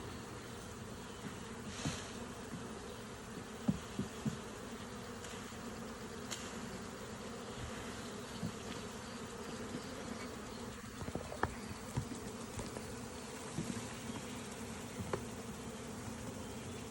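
Steady buzzing hum of a large honeybee swarm, thousands of bees flying close around, with a few faint clicks and knocks over it.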